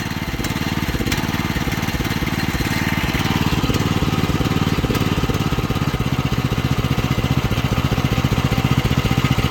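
Small gasoline engine of a Rippa Mule Trac mini excavator running rough and unable to settle at idle, its speed swinging up and down; it builds a little louder toward the end. The owner puts the hunting down to low compression or a knockoff carburetor that can't be tuned.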